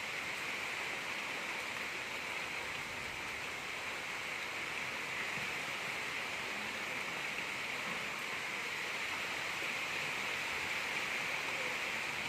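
Gentle rain falling steadily: an even, unbroken hiss with no thunder.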